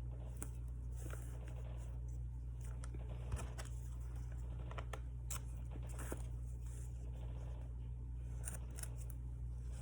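Scattered small clicks and brief scrapes of paper, tape and stationery being handled on a desk while decorating planner pages, over a steady low hum.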